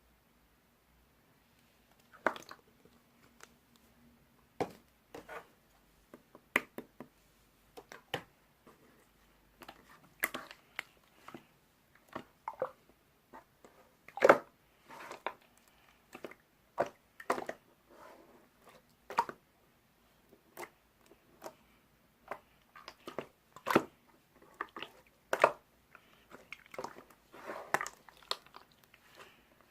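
Slime being pressed and poked by hand, making irregular wet clicks and pops that start about two seconds in and come more often toward the end.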